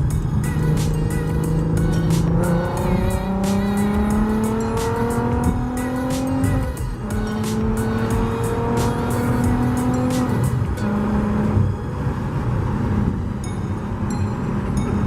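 VW Jetta Mk4 VR6 24-valve narrow-angle V6 exhaust through a MagnaFlow high-flow cat, 2.5-inch piping and a Borla muffler, running under acceleration. Its pitch rises steadily, drops about seven seconds in as at a gear change, rises again, then holds steady near the end.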